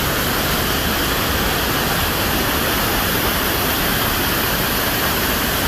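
Loud, steady rush of falling water with no breaks.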